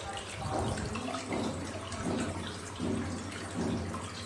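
Water splashing and trickling in a small handmade decorative fountain, in a continuous wash that swells every second or so, over a low steady hum.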